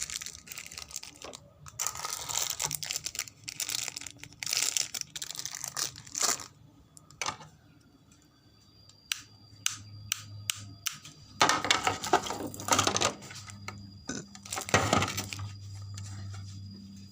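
Handling noises: irregular rustling and scraping with sharp clicks, joined about halfway through by a steady low hum.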